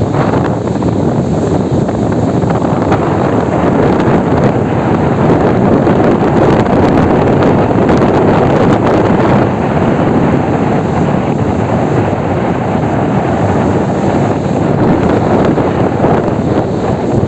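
Gale-force wind buffeting the microphone in a loud, steady rumble, with storm surf washing beneath it.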